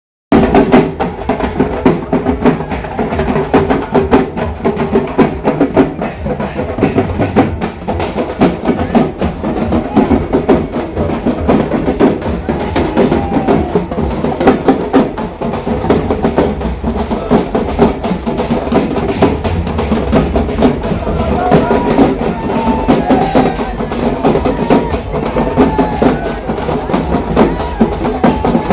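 Music driven by fast, dense drumming and percussion, with rapid strokes running evenly throughout.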